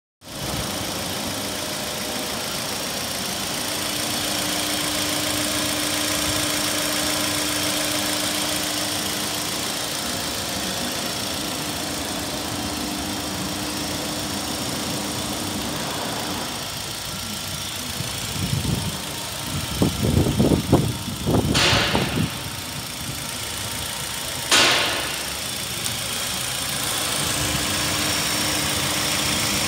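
Nissan X-Trail's 2.5-litre four-cylinder petrol engine idling steadily. A little past the middle come a few seconds of irregular low thumps and two sharp clicks about three seconds apart.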